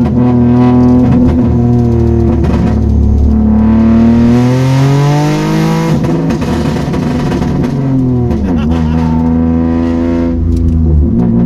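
Toyota Aygo's 1KR three-cylinder petrol engine pulling under acceleration. Its pitch climbs steadily, then drops sharply about six seconds in and dips again about eight seconds in, as at gear changes.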